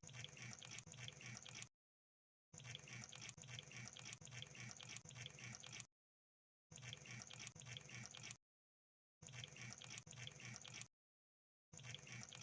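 Crab sound effect: dense crackling clicks in five separate bursts, each about one to three and a half seconds long, with short gaps of dead silence between them.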